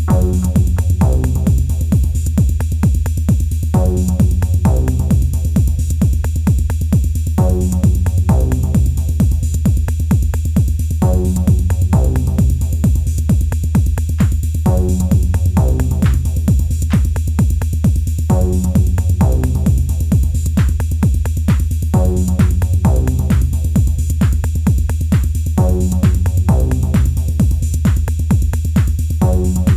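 Elektron Analog Rytm drum machine playing a steady, driving techno pattern, with a short repeating bass phrase every few seconds.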